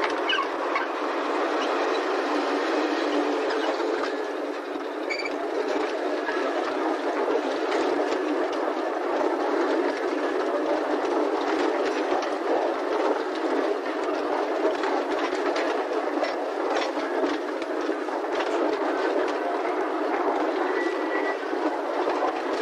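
Narrow-gauge sugar-cane train passing close by. The diesel locomotive goes past at the start, then cane-loaded lori wagons roll by with a steady running noise and frequent clicks of wheels over rail joints.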